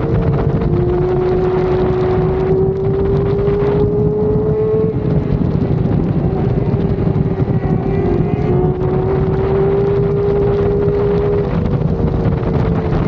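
Motorcycle engine running under way, its pitch climbing slowly and then dropping twice, with wind buffeting the microphone throughout.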